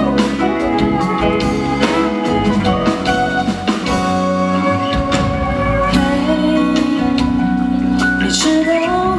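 Live band music: an instrumental passage of a pop ballad, played without singing.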